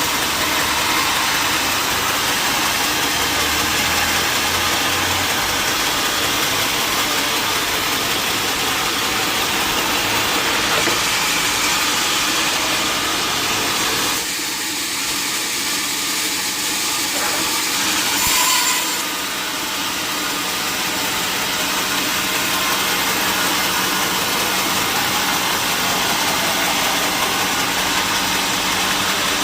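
Sawmill saw running and cutting mahogany wood, a loud steady noise that eases for a few seconds about halfway through, with a short louder burst soon after.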